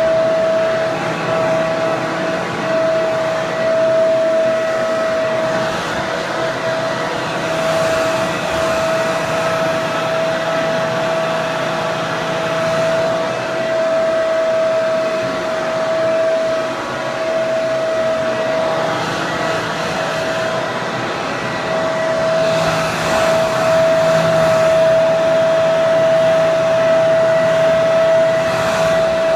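Hair dryer running steadily: a constant rush of blown air with a single steady whine at a fixed pitch.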